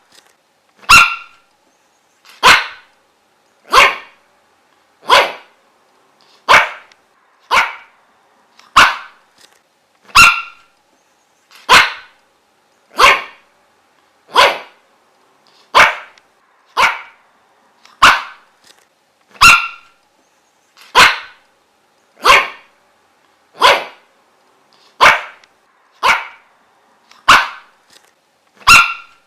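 A dog barking single short, sharp barks at a steady, unbroken pace, about one every second and a bit, over and over.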